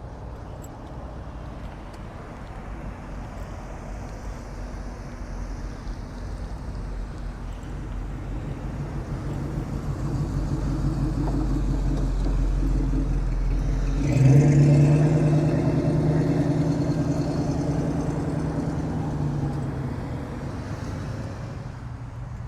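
A car engine driving past: it grows steadily louder, is loudest from about two-thirds of the way through, then fades away near the end.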